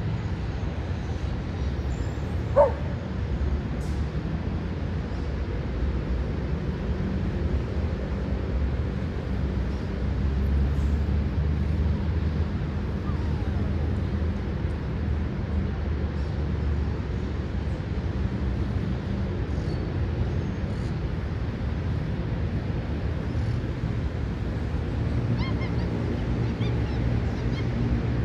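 Steady low rumble of distant city traffic, with one short, sharp dog yelp about two and a half seconds in.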